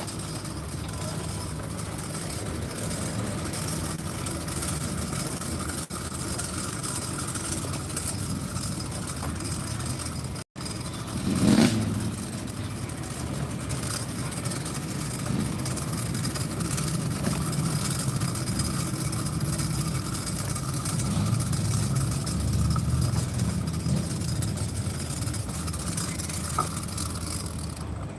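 Car engines running with a steady low rumble. About eleven seconds in there is a brief gap, followed by a short, louder burst, and the rumble swells again later.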